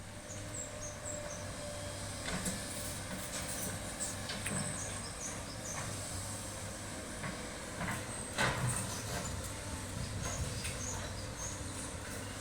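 SANY excavator's diesel engine running steadily with a low hum, with occasional sharp knocks and clanks from the machine at work; the loudest knock comes about eight seconds in.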